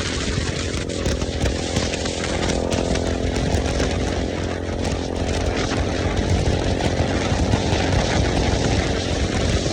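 KTM motorcycle engine running steadily.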